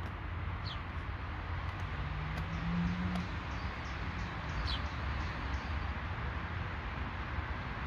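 Outdoor ambience: a steady low rumble and hiss, with a bird giving a short falling chirp twice, about a second in and again near five seconds. A low hum rises briefly around two to three seconds in.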